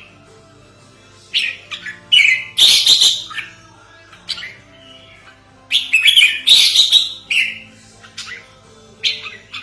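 Red-whiskered bulbul calling in short bursts of bright, chirpy notes, in four groups: about 1.5 s in, a long loud run from about 2 to 3.5 s, another around 6 to 7.5 s, and a short one near the end. It is a lure recording used to call in wild bulbuls.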